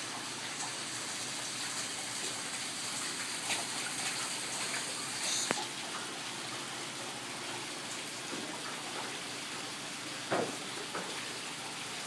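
Steady rush of water, with a few brief knocks about a third of the way in, halfway, and near the end.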